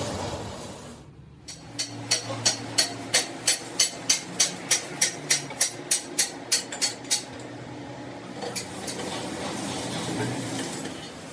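A hammer striking metal in a steady series of sharp blows, about three a second for roughly five seconds, over a steady workshop background.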